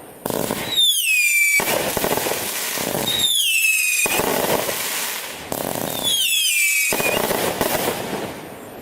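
A consumer firework going off: three whistles, each falling in pitch, each followed by a long spell of loud noisy crackling.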